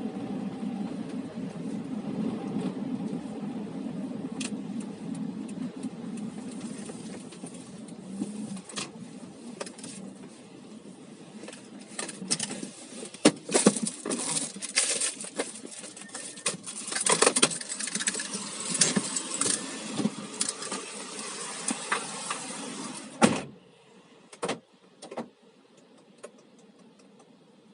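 Car cabin noise while driving, a low rumble that fades as the car slows. It is followed by a run of sharp clicks and rattles, like keys and handling, and then the cabin noise cuts off suddenly near the end, leaving a couple of clicks and near quiet.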